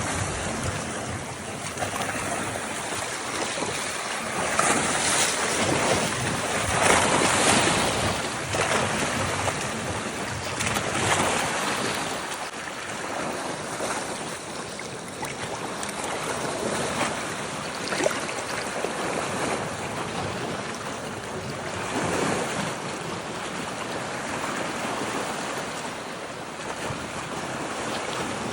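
Red Sea waves washing onto the shore, the surf rising and falling every few seconds, with wind on the microphone.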